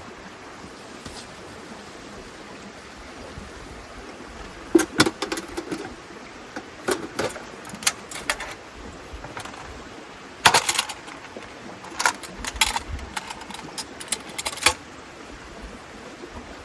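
Scattered clinks and knocks of gear being handled, in several short clusters between about five and fifteen seconds into a steady background hiss.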